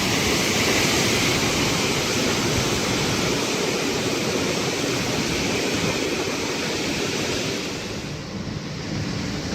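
Derecho windstorm: strong wind rushing as one steady noise, easing slightly near the end.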